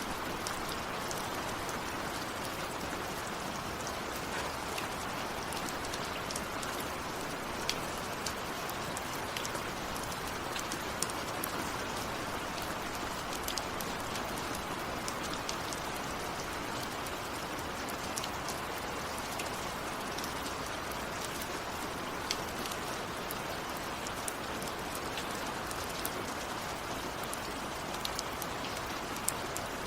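Steady rain falling, with scattered louder drops ticking sharply close by.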